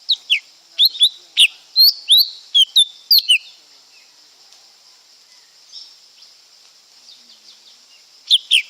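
Lesser green leafbird singing: a quick run of about a dozen sharp whistled notes, sliding up and down, lasting about three seconds. After a pause a new run starts near the end, over a steady high hiss.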